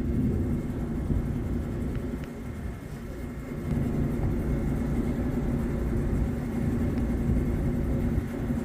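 Steady low engine rumble, like a vehicle running, that dips briefly a few seconds in and then holds steady.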